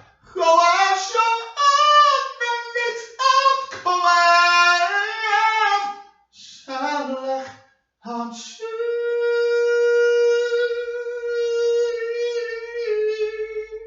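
A single voice singing unaccompanied: short gliding phrases with brief breaks, then one long held high note through the last five seconds.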